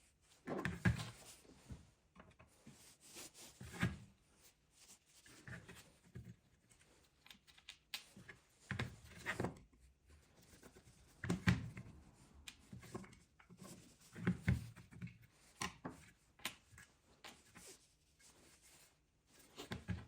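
Irregular knocks and rubbing as an old metal shear is handled and worked by hand, a few sharper clunks among quieter scraping.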